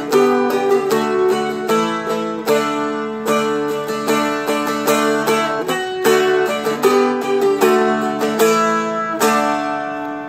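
Seagull Merlin M4 four-string fretted dulcimer, flatpicked slowly through chords and melody notes. Near the end a last chord is struck and left to ring out and fade.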